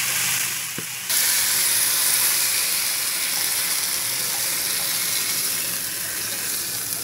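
Pork and mixed-mushroom stir-fry sizzling in a frying pan as a steady hiss. The hiss dips briefly, then jumps back up about a second in.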